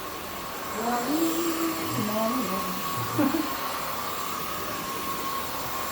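Zoker A10 Pro cordless stick vacuum running on its high power setting while vacuuming carpet: a steady motor hum with a fixed whine near 1 kHz and a faint high tone above it, with no squeals. A voice murmurs softly a couple of times over it.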